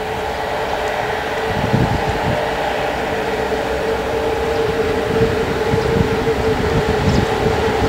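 Romanian electric locomotive hauling a passenger train slowly over station points. Its cooling fans and traction equipment give a steady hum, the wheels thump over rail joints and switches, and it grows gradually louder as it draws near.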